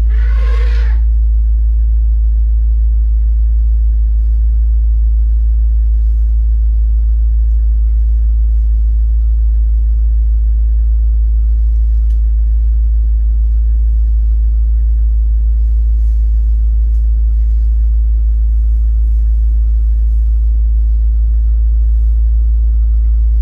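Vehicle engine idling: a steady, loud low rumble. About half a second in, a brief higher burst of sound cuts through.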